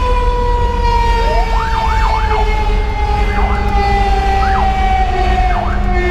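A fire engine's Federal Q2B mechanical siren holds a long tone that slowly winds down in pitch. Over it, an electronic siren gives quick rising-and-falling sweeps about once a second, above the steady rumble of the engine and road.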